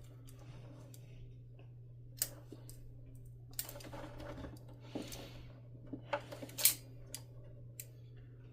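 Scattered small clicks, snaps and scraping from working loose the wire connections and a plastic wire sleeve by hand, the sharpest click about two-thirds of the way through, over a steady low hum.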